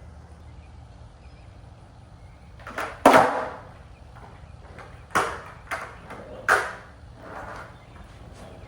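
Skateboard knocking on hard ground: a series of sharp clacks with short ringing tails, the loudest about three seconds in and several more over the next four seconds.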